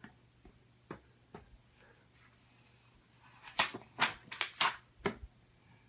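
A picture book being handled: a few light taps, then a quick cluster of short taps and rustles about three and a half seconds in, as a page is turned.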